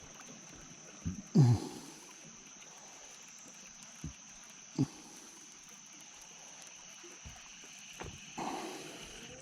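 Mostly quiet, with a few scattered short knocks and thumps, the loudest about a second and a half in, over a faint steady high-pitched hum.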